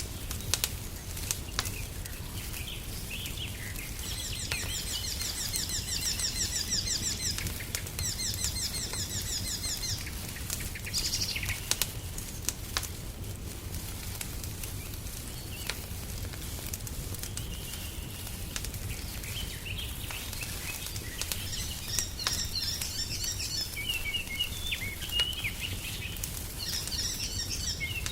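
Wood fire crackling in a fireplace, with scattered sharp pops over a low steady rumble. Songbirds sing over it: two rapid high trills a few seconds in, then bursts of chirping in the second half.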